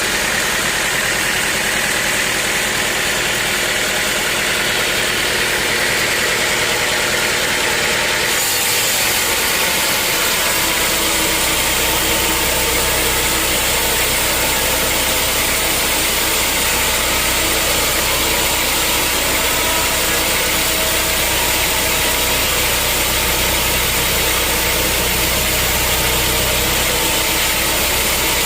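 Sawmill machinery running with a steady, loud mechanical noise. About eight seconds in the sound changes, and a low steady hum joins soon after.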